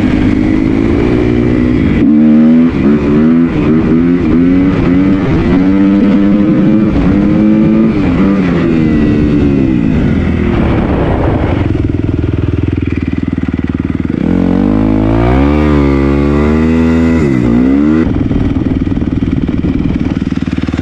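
Kawasaki motocross bike engine revving, its pitch climbing and dropping over and over, with a steadier lower-pitched stretch around the middle before another run of rising and falling revs.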